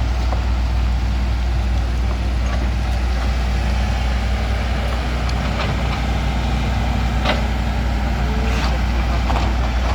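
Heavy diesel vehicle engine running steadily at a low, even drone, with a few short knocks or clicks over it.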